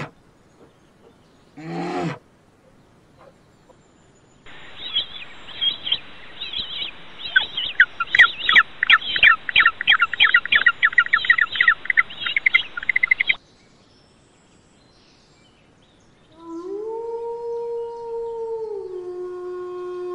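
A short growl from a black bear, then a king penguin colony calling for about nine seconds, many rapid overlapping calls. Near the end a wolf starts a long howl that drops in pitch partway.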